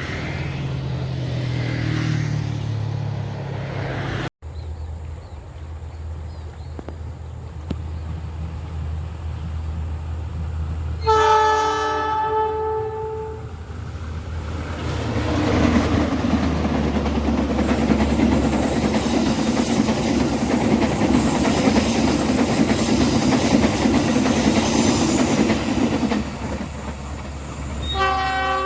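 Diesel locomotive horn blowing about eleven seconds in, then the train passing close with loud rail and wheel noise for about ten seconds, and the horn sounding again near the end.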